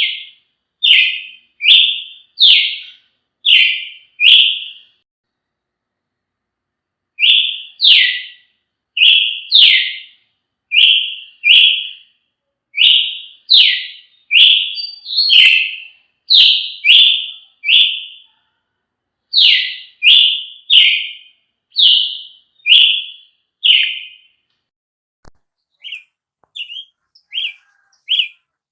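Brazilian tanager (tiê-sangue) calling: a long series of loud, short, harsh notes, roughly one a second, broken by a pause of a few seconds early on. Near the end they turn shorter and fainter.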